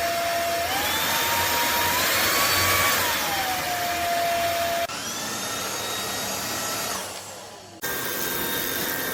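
A cordless stick vacuum's brushless motor runs with a steady whine over rushing air. Its pitch climbs in steps from about a second in, then slides back down around three seconds. The sound shifts abruptly twice, near five seconds and near eight, with a different whine each time.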